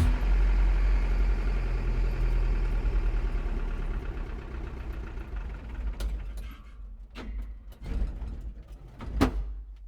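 A vehicle engine idling with a low rumble that fades away over several seconds, then a few sharp knocks like door clunks.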